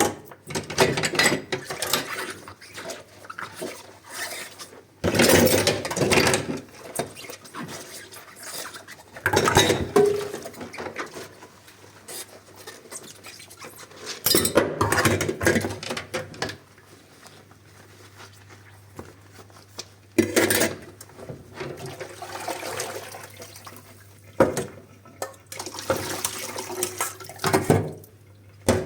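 Dishes being washed by hand at a sink: tap water gushes on and off in rushes of a second or two, with dishes clinking and being rubbed between them.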